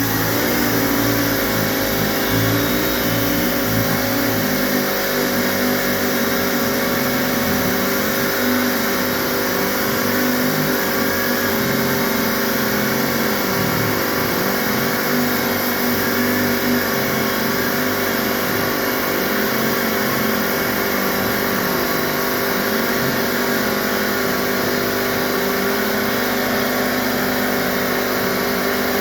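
Air-powered dual-action (DA) sander running steadily, feathering out stress cracks in bumper paint. It gives a constant high hiss over a steady whine that settles about half a second in.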